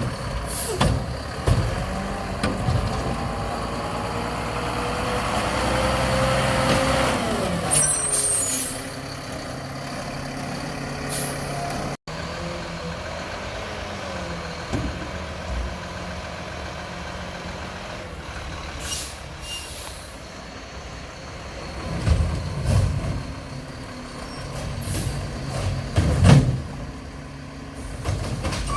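Mack LEU garbage truck with a McNeilus Meridian body: its diesel engine revs up and back down with a rising then falling whine, several air brake hisses, and a few loud knocks and clanks near the end.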